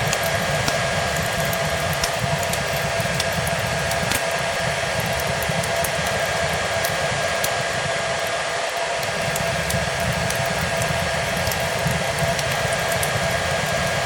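Hair dryer blowing steadily, its motor giving a constant whine over the rush of air, mixed with the small scattered crackles of a wood fire.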